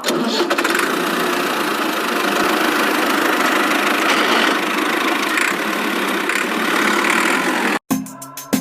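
Small electric motor of a DIY model tractor running steadily, a dense mechanical whir that stops abruptly near the end.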